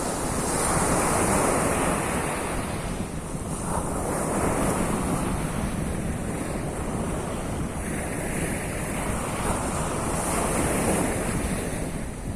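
Sea waves washing onto the shore in a continuous surf that swells and eases every few seconds, with wind rumbling on the microphone.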